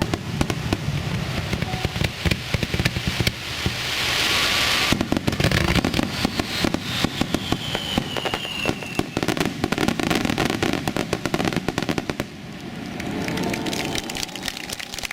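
Aerial fireworks exploding in rapid succession, a dense mass of crackling reports and bangs. A hissing rush swells about four seconds in, and a falling whistle runs through the middle.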